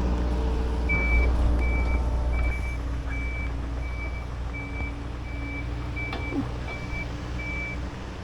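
Reversing alarm on a heavy machine beeping steadily, about eleven short high beeps spaced evenly, over the low running of its engine; the beeping starts about a second in and stops near the end.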